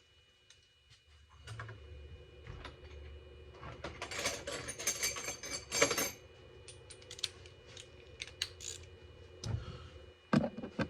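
Hand ratchet clicking as it drives in screws: a dense run of rapid clicks about halfway through, then scattered single clicks.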